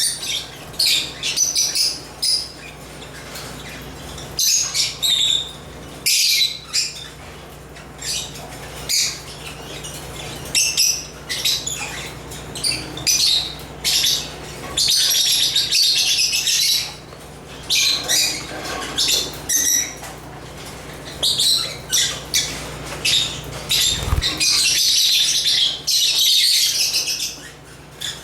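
African lovebirds (Agapornis) chirping in shrill, rapid bursts, with stretches of dense chattering broken by short pauses.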